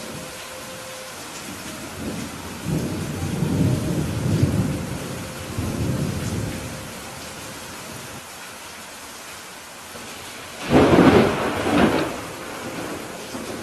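Steady rain with a thunderstorm: low rumbles of thunder through the first half, then a loud, sharper thunderclap near the end that lasts about a second.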